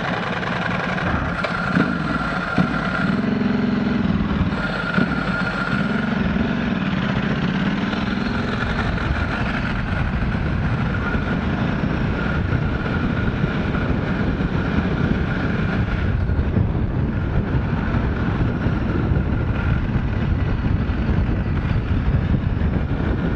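Motorcycle engine and rushing wind heard through a helmet-mounted camera mic while riding. The engine note rises and falls during the first several seconds, then settles into a steady cruise.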